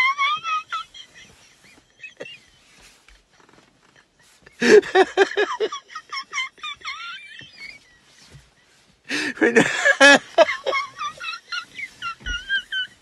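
A man laughing hard just after telling a joke's punchline, in high-pitched, squeaky gasps, with two louder fits of laughter about five and nine seconds in.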